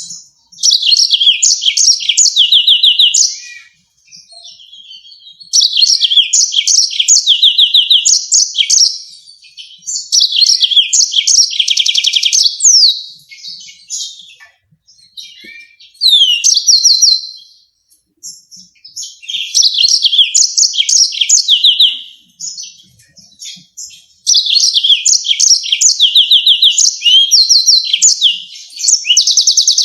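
Yellow-fronted canary singing: high-pitched phrases of fast trills and sharp rolling notes, each lasting a few seconds, with short pauses between them.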